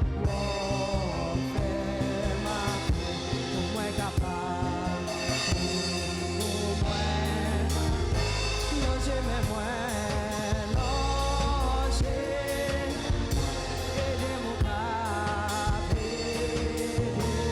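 Live gospel worship song: singing with vibrato over a band with drum kit and bass, the drums playing a steady beat.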